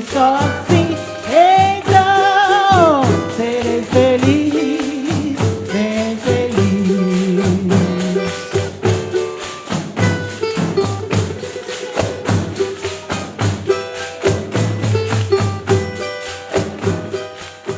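Live Brazilian music from a pandeiro ensemble: many pandeiros (frame drums with jingles) beating a quick, steady rhythm, with a melody of held, wavering notes above it.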